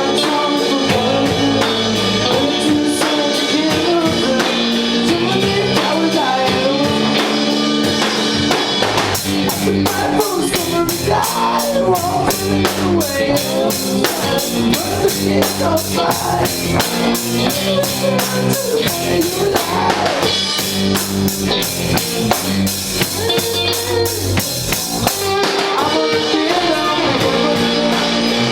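Garage punk band playing live: drum kit, guitar and some singing. The drumming turns busier and faster from about nine seconds in until about twenty-five seconds.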